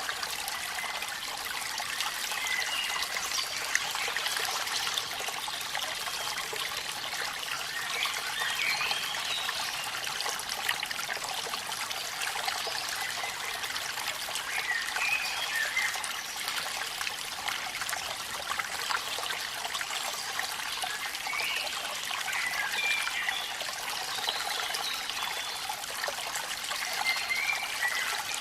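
Waterfall water running and trickling steadily, a bright splashing sound with little low rumble.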